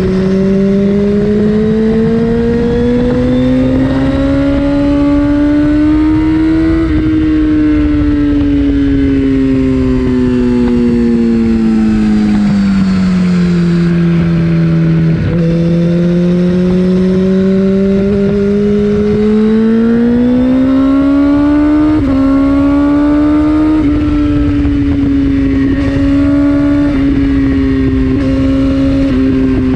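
2014 Kawasaki ZX14R's inline-four engine through an Akrapovic Racing Line exhaust, pulling under load at speed. The engine note climbs slowly, eases off, climbs again, then shifts up and down in small sudden steps near the end, over a steady wind rush.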